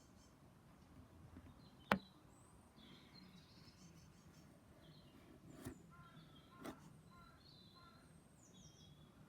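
Small birds chirping faintly in scattered short calls, with a sharp click about two seconds in, the loudest sound, and two softer clicks later.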